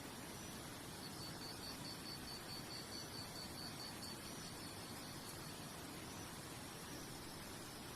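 Steady hiss of a nature soundscape. From about a second in until near the middle, a high chirp pulses about five times a second, cricket-like.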